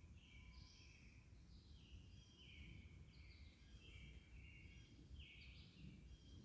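Faint outdoor ambience: many short bird chirps, high-pitched and repeated throughout, over a low rumble.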